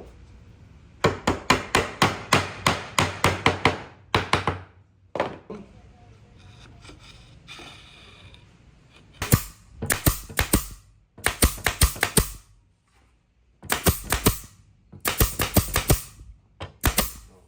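Rapid series of sharp knocks on wood, about four strikes a second, coming in several bursts with a quieter pause in the middle.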